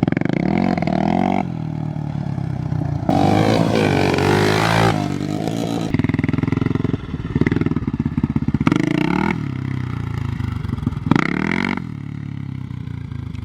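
Off-road vehicle engine revving, its pitch rising and falling with several bursts of throttle.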